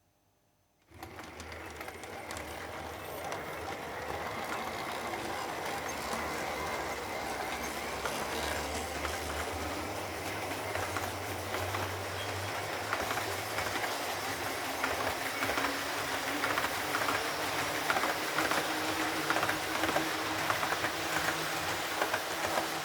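Double-headed 1/45-scale DD51 model diesel locomotives running with a train of brass 24-series coaches: a steady motor and gear hum under wheels clicking over the rail joints. It starts about a second in and grows gradually louder, with the clicks coming thicker toward the end.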